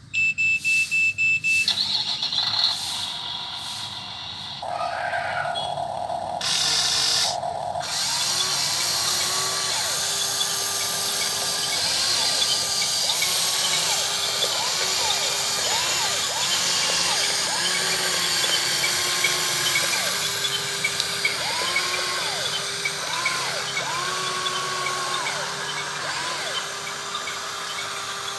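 Small electric motors of a model 16800 RC excavator whining, their pitch repeatedly rising, holding and dropping as each motion starts and stops. It opens with a few seconds of short electronic tones before the motors start.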